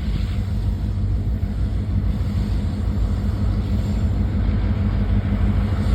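Steady low rumble of a vehicle, even throughout with no distinct knocks or changes.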